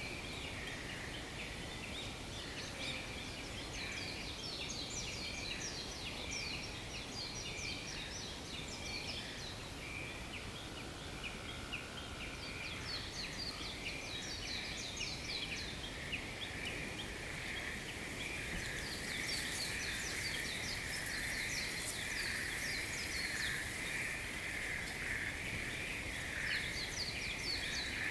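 Outdoor nature ambience: many birds chirping, short rapid calls repeating throughout, over a steady high drone that grows louder in the second half.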